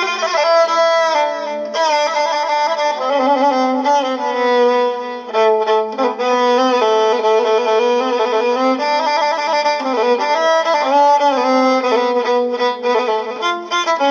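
Instrumental passage of Iraqi Mohammadawi folk music: a violin plays an ornamented, wavering melody over a steady low drone.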